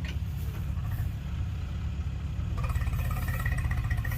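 Heavy farm diesel engine running with a steady low pulsing beat; a higher-pitched whine joins about two-thirds of the way through.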